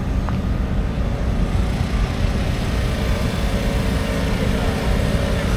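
Big-block dirt modified race car engines running, a steady loud rumble of several engines together.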